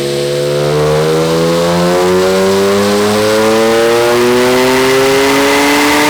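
BMW E46 M3's S54 straight-six running through an aftermarket muffler with the resonator deleted, pulling hard under acceleration, its pitch climbing steadily with no shift.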